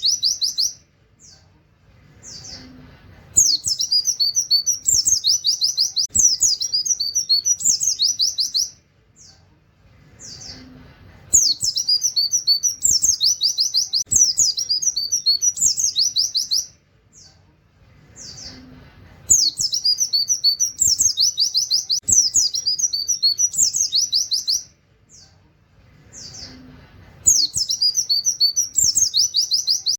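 White-eye (pleci) singing fast, high-pitched song bouts packed with canary-like 'wit wit' runs. Each bout lasts about five seconds and is followed by a pause of about three seconds with a few single chirps; the bouts come about every eight seconds, four times.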